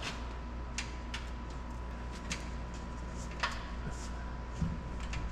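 Scattered light clicks and taps of metal being handled as a sheet-metal cab skin is worked into place, five or so at irregular times, over a steady low hum.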